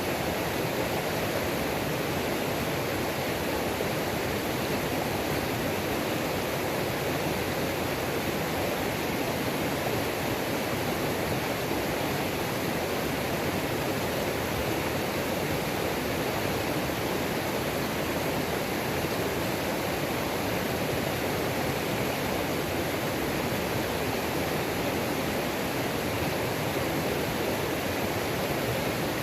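Waterfall on a mountain creek: water pouring and rushing over rocks in a steady, even roar with no changes.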